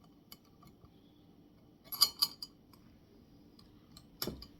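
Glass Kilner jar being handled: faint scattered clicks, a quick cluster of sharp clinks about two seconds in, and another knock near the end.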